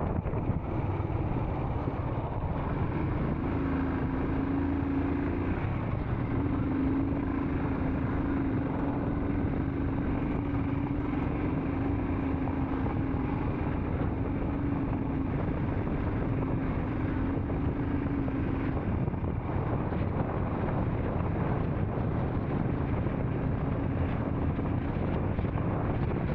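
Royal Enfield Scram 440's single-cylinder engine running at a steady cruise, with wind buffeting the microphone. A steady low hum holds from a couple of seconds in until about two-thirds of the way through, then comes back faintly near the end.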